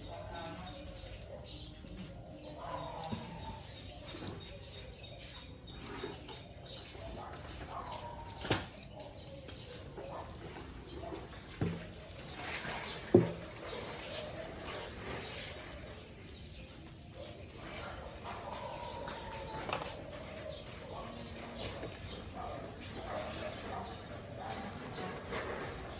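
A high, rapid chirping trill from a small animal, repeating in runs of a few seconds, with faint voices and a few sharp knocks, the loudest about 13 seconds in.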